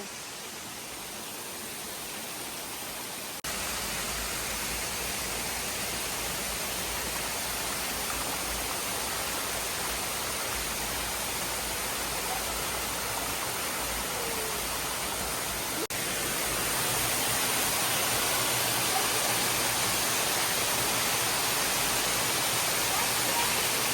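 Waterfall rushing: a steady noise of falling water. It steps up louder with a brief break about three seconds in, and again near sixteen seconds.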